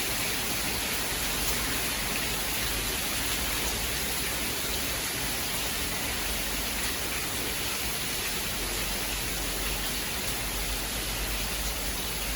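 Steady rain falling, an even hiss with faint individual drops and no thunder.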